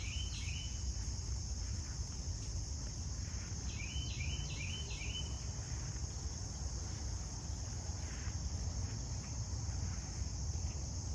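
A steady high-pitched insect chorus, like crickets, with a bird singing a short phrase of four quick notes at the start and again about four seconds in, over a constant low rumble.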